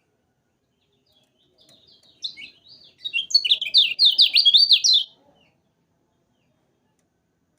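Kecial kuning songbird singing a short, rapid burst of high chirps and quick up-and-down notes. It starts softly, then turns into a loud, fast run of repeated sweeping notes before stopping about five seconds in.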